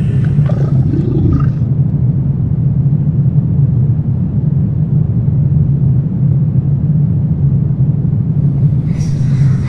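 Low, steady rumbling drone of a horror ambience track. A higher, wavering sound dies away in the first couple of seconds, and a brighter, higher sound comes in near the end.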